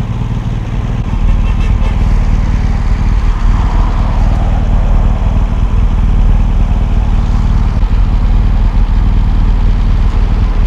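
BMW R1200GS flat-twin engine idling steadily close to the microphone, then switched off right at the end, where the sound stops abruptly.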